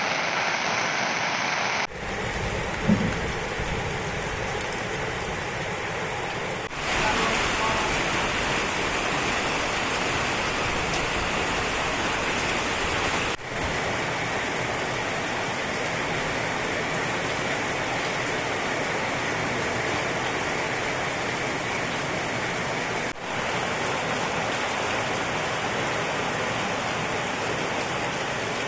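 Heavy rain pouring down in a steady, even rush, with abrupt changes in its sound at several points where different recordings are cut together. A brief louder low tone sounds about three seconds in.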